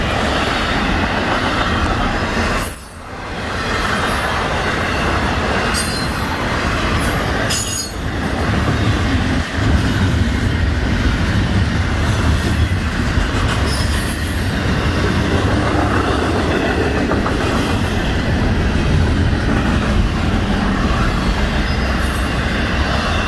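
Florida East Coast Railway train rolling past close by: a loud, steady rumble of cars on the rails, with short high wheel squeals now and then. The sound dips briefly twice, about three and eight seconds in.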